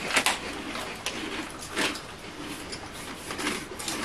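Crunchy prawn crackers being chewed: irregular crunches, the loudest right at the start, then scattered ones about a second and two seconds in.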